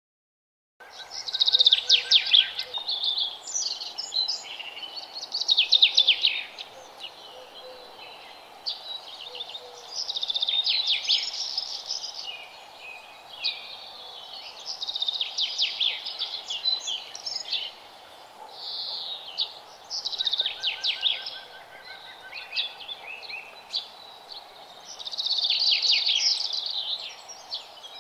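Birds chirping and singing in repeated bursts of rapid high trills every few seconds, over a steady background hiss. It starts about a second in.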